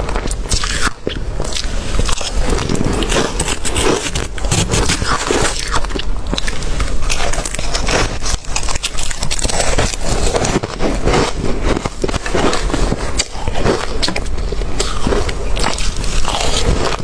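Ice being bitten and chewed close to the microphone: dense, irregular crunching and cracking, with no break.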